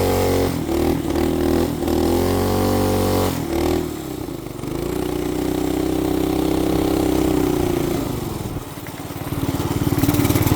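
Small motorbike engine running under way, its pitch rising and falling with the throttle. It dips briefly a few times in the first two seconds and lulls around four seconds in, holds steady for a few seconds, then comes back louder and rougher near the end.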